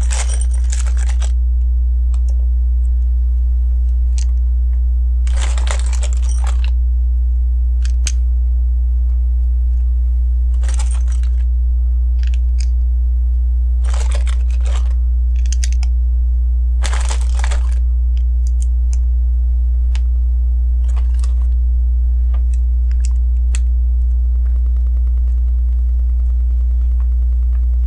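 Small plastic LEGO pieces clicking and rattling as they are handled and pressed together, in short irregular bursts, over a steady low electrical hum.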